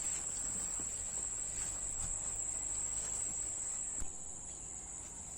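Crickets chirring in a steady, high-pitched trill that drops a little in loudness about four seconds in.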